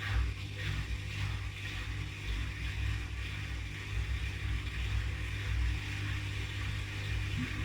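Haier I-Pro Series 7 HW80-B14979 washing machine running its cycle: a steady low rumble from the turning drum and motor, with a hissing swish on top.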